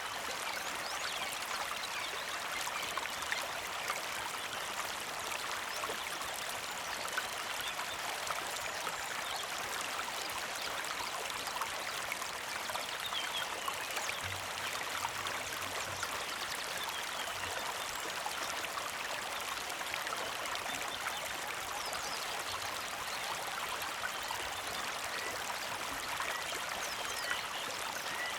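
Small mountain creek flowing steadily over rocks, a continuous trickling and splashing of water.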